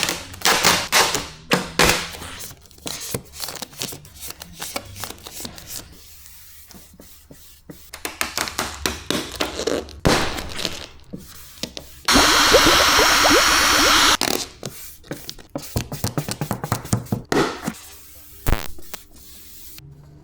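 Vinyl wrap film being handled and worked onto a car's wing: crinkling, snapping and tapping sounds, with a louder continuous rasp lasting about two seconds a little past the middle.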